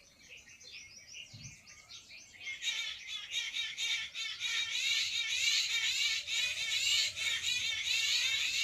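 Many small birds chirping at once in a dense, continuous chatter, faint at first and growing much louder and busier about two and a half seconds in.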